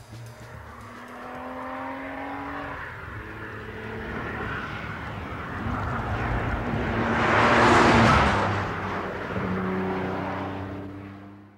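Nissan Fairlady Z (S30) sports car at speed: its engine note rises as it approaches and goes past, loudest about eight seconds in. It then carries on with a steadier engine tone that fades out quickly at the end.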